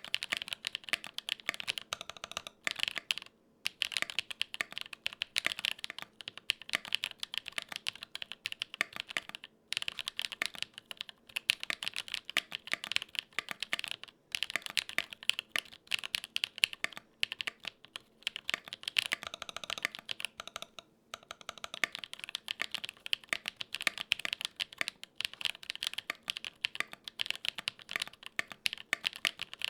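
Continuous fast typing on a Gok 7V custom 75% mechanical keyboard with lubed tactile switches: a dense run of key clacks, with brief pauses about three, ten, fourteen and twenty-one seconds in.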